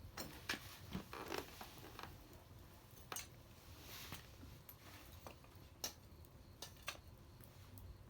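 Wood bonfire crackling faintly, with scattered sharp pops and snaps at irregular intervals and a brief soft hiss about four seconds in.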